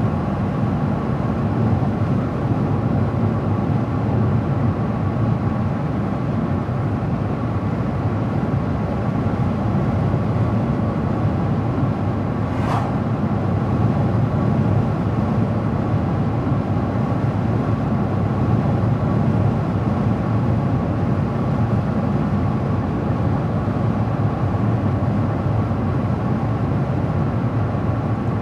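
A car driving at a steady speed: an even, low road-and-engine noise that does not change, with one brief click about halfway through.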